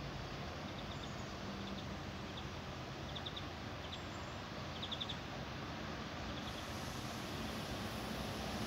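Steady outdoor background noise with a few faint, short bird chirps; near the end the sound of an approaching ICE high-speed train slowly builds.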